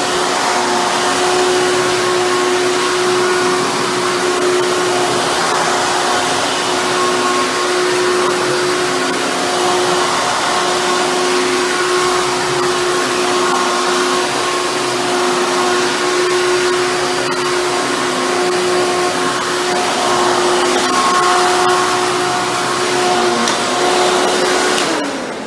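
Hoover Bagless Twin Chamber upright vacuum cleaner running steadily, a loud rushing of air over a constant motor whine. Near the end the motor is switched off and winds down.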